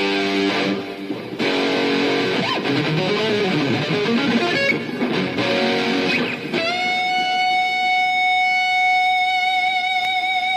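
Electric guitar played alone: bent notes and chords, then about six and a half seconds in a single high note held and sustained for around four seconds.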